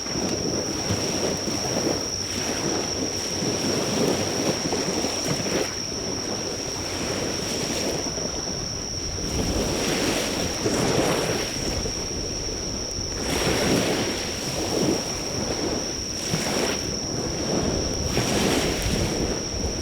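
Waves breaking on the shore in slow, repeated surges, with an insect trilling steadily at a high pitch. The campfire's crackle is barely audible under the surf.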